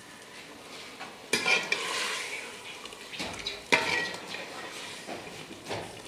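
Metal spoon stirring and scraping in a pot of frying food over a steady sizzle, with sharp clanks of spoon on pot about a second in and again near four seconds.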